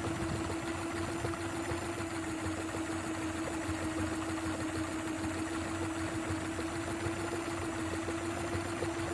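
Small DC motor of a cardboard toy tractor running steadily, a constant whine over a light rattle.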